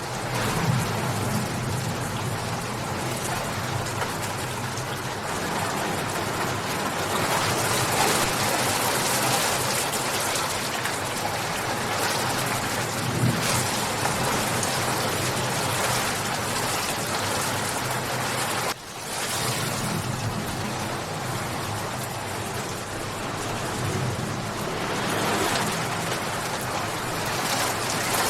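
Steady heavy rain falling on surfaces, an even hiss of drops. It cuts out sharply for a moment about two-thirds of the way through and then fades back in.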